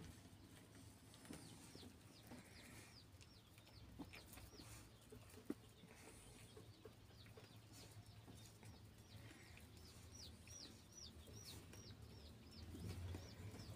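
Faint, short, high chirps of small birds, about two or three a second, starting about a second in, over near silence with a low hum.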